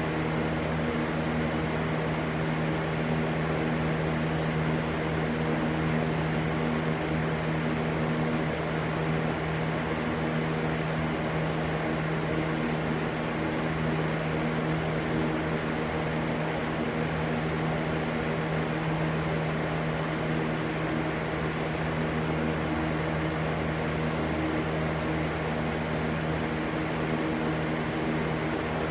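Electric fan running steadily: an even airy rush with a constant low motor hum underneath.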